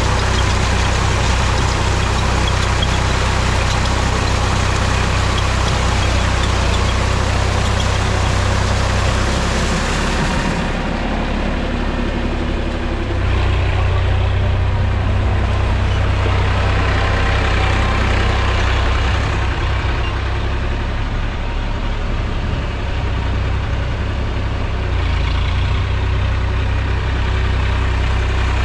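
Mahindra tractor's diesel engine running steadily. Its low note weakens for a few seconds about a third of the way through, then comes back.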